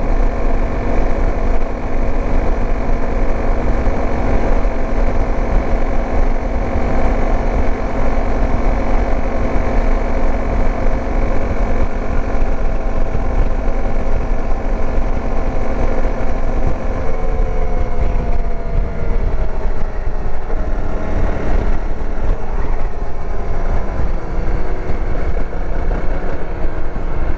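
Dirt bike engine running at a steady pace under a heavy low rumble; about two-thirds of the way through, the engine note falls as the bike slows down, then holds lower.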